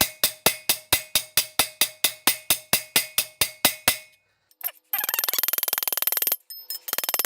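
Small hammer peening brass rivets, light even taps about five a second with a faint ring, setting the rivets that join the spatula blade to its handle. The taps stop about four seconds in. After a short pause comes a loud, rapid, dense rattle lasting about a second and a half, which starts again near the end.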